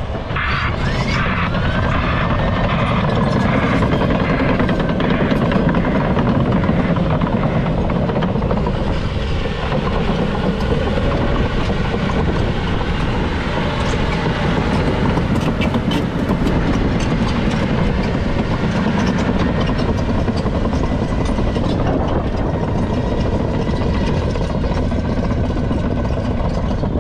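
Cat D6 Next Gen crawler dozer working: diesel engine running under load, with its steel tracks clanking and rattling steadily.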